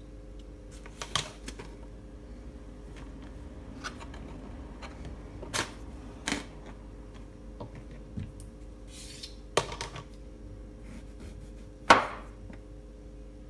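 Kitchen food-preparation sounds: irregular taps and knocks of utensils on a work surface, the sharpest knock near the end, over a steady low hum.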